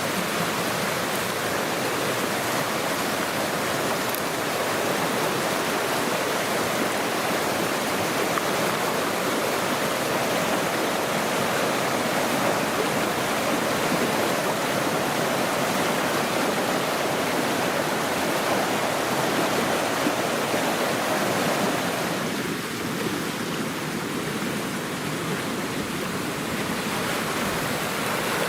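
Fast-flowing river water rushing steadily over stones.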